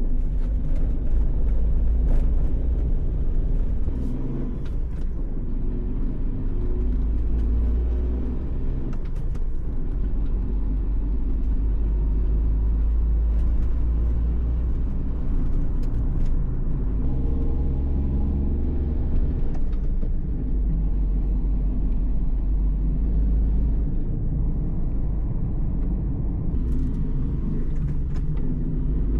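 A car on the move: a steady low rumble of engine and road, its engine note shifting now and then.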